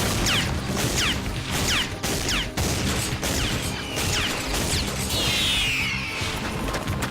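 Animated action-scene sound effects over dramatic score: a rapid series of short descending zaps and sharp crashes, then a longer descending sweep about five seconds in.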